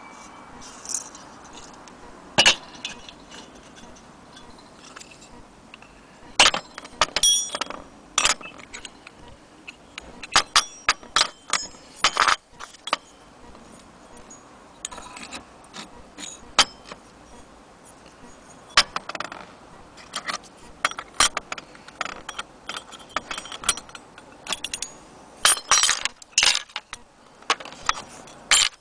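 Metal parts of a vintage brass Primus camping stove clinking and rattling as they are handled: many light, sharp clicks at irregular intervals, some in quick clusters.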